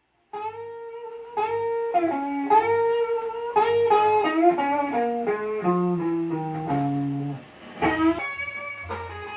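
Guitar music: a plucked melody that starts about a third of a second in, over a lower line that steps down in pitch.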